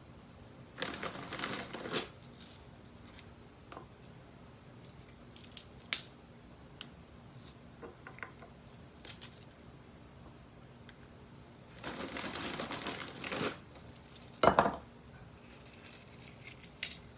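Plastic ravioli bag crinkling in two stretches, about a second in and again around twelve seconds in, with small clicks in between as ravioli are laid down. A single sharp knock comes about fourteen and a half seconds in.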